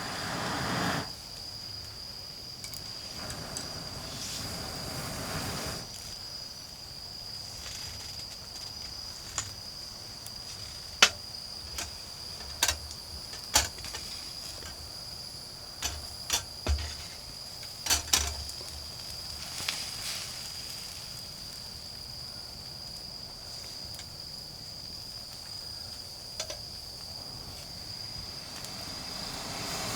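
Autumn insects trilling, one steady high-pitched tone throughout, over a wood campfire giving about a dozen sharp pops between roughly 9 and 20 seconds in.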